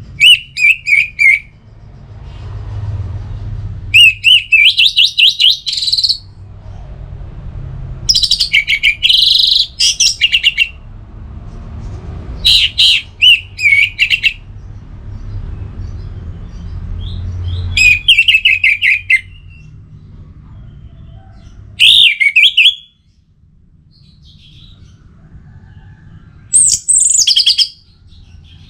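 Orange-headed thrush singing: short phrases of rapid, high trilled notes, one every few seconds, over a faint low rumble.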